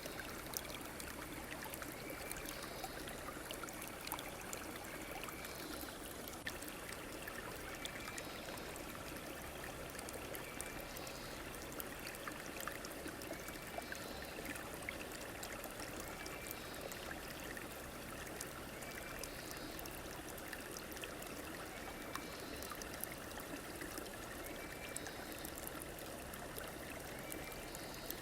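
A stream running steadily over its bed, with a short high call repeating about every two seconds above it.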